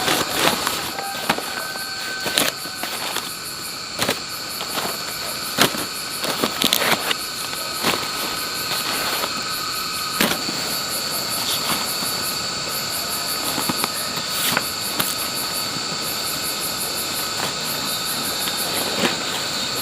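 Steady chorus of insects, cicadas or crickets, with a rapid pulsing trill on top. Irregular sharp clicks and knocks come every second or so.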